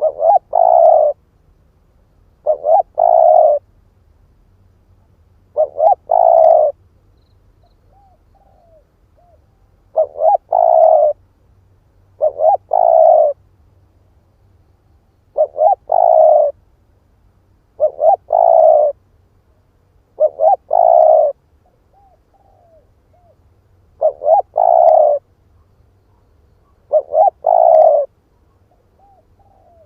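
Spotted dove cooing: each phrase is two or three short notes running into a longer coo, repeated about every two to three seconds, with a few softer short notes between phrases. This is the male's song, used to rouse decoy doves.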